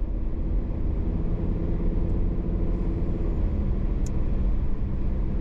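Car running along a road, heard from inside the cabin: a steady low rumble of engine and tyres, with the engine note changing about three seconds in. A short click about four seconds in.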